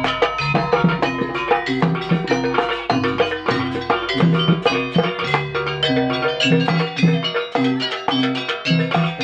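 Live instrumental music: rapid struck melodic percussion and drums over a repeating bass line.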